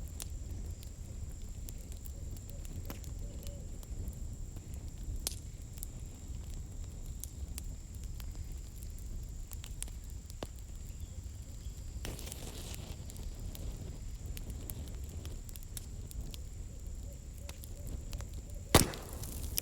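Campfire burning, with scattered crackles and pops from the firewood over a steady low rumble, and one sharp, loud pop near the end.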